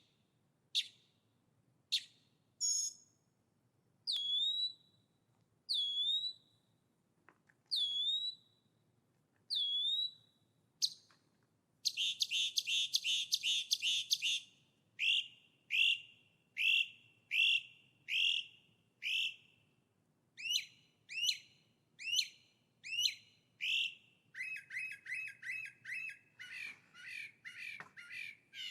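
A songbird singing: clear whistled notes, each ending in a downward hook, repeated about every two seconds, then a fast buzzy trill, a run of quicker repeated notes, and a rapid chattering trill near the end.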